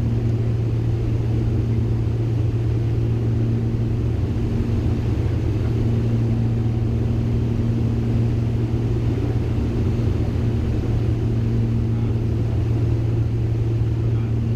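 Steady drone of a Beechcraft G58 Baron's twin piston engines and propellers heard inside the cockpit in flight, a constant low hum with a fainter higher tone that fades in and out.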